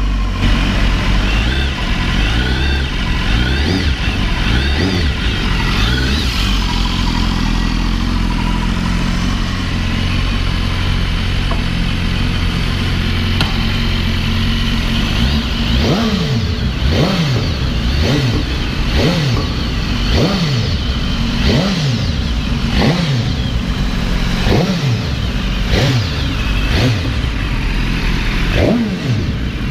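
BMW S1000RR's 999 cc inline-four engine running steadily, then from about halfway through revved in roughly a dozen quick throttle blips, each rising and falling in pitch, about one a second.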